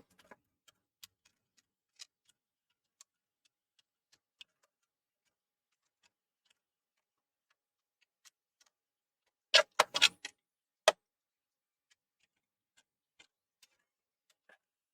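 Scattered small clicks and taps of parts and tools being handled on a workbench, with a quick cluster of louder knocks about ten seconds in and one more a second later.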